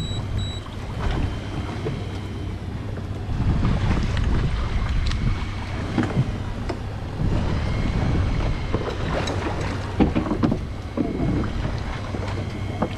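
Fishing boat's engine running steadily as a low hum, with wind buffeting the microphone and scattered knocks.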